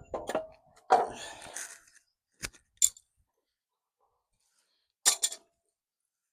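Scattered metal clinks and knocks of bolts, washers and tools being handled while a steel bumper is bolted on: a clatter about a second in, two sharp ticks a little later, and a short rattle near the end.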